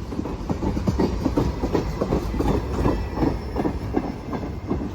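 Freight train cars rolling past, steel wheels clacking over rail joints in a quick, uneven run of knocks over a low rumble.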